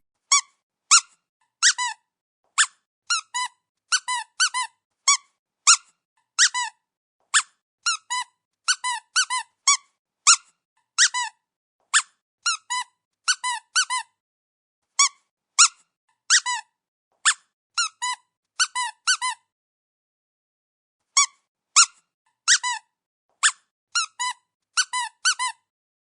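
A long run of short, high squeaks, often in quick pairs or triplets, each dipping slightly in pitch, with dead silence between them and a brief pause about three-quarters of the way through.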